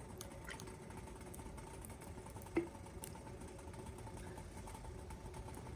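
Faint crackling of a wood campfire, scattered small pops and one sharper pop about two and a half seconds in, over a steady low hum.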